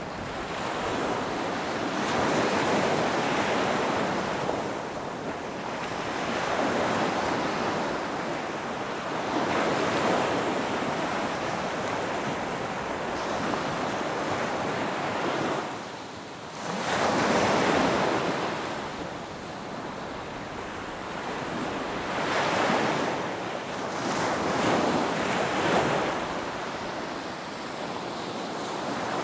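Ocean surf breaking and washing up a beach: a continuous rush that swells and ebbs as each wave comes in, with a short lull followed by a bigger wave about sixteen seconds in.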